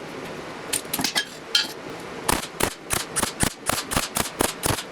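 A run of sharp metallic knocks on steel, like hammer blows on flat-bar grille pieces. They are scattered at first, then settle to about three strikes a second, some leaving a short ring.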